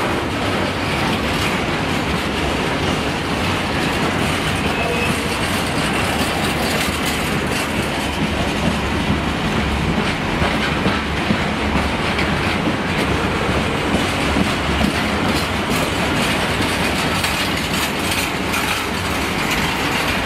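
Empty freight wagons rolling past, wheels clattering steadily over the rail joints, until the last wagon goes by near the end.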